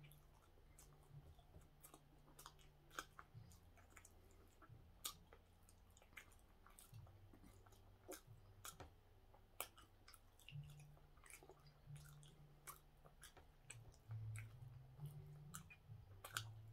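Faint mouth sounds of a man chewing a soft steamed bun (hoppang): small wet smacks and clicks at irregular intervals, over a low steady hum.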